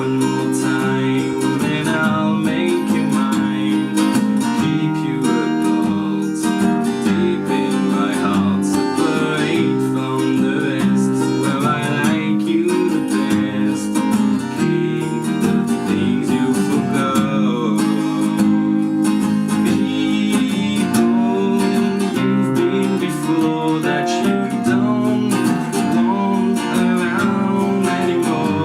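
Acoustic guitar playing a song live, picked and strummed without a break.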